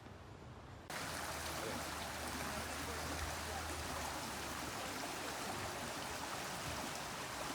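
Steady rush of running water from a stream, starting abruptly about a second in.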